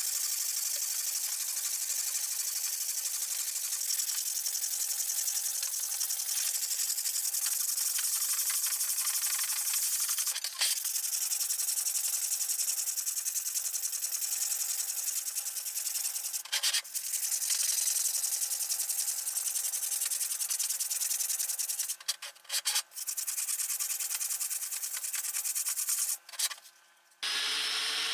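Steady abrasive rubbing, as of sanding by hand, broken by a few brief cuts. About a second before the end it gives way to a different, steadier sound with a hum of several tones.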